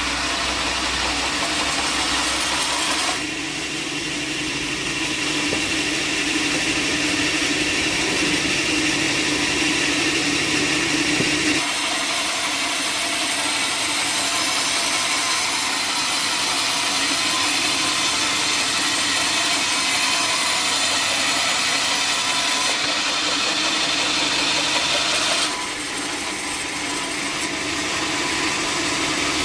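Sawmill saw running and cutting through wood: a steady machine noise with a bright hiss. Its character changes abruptly about three seconds in, near the middle and near the end.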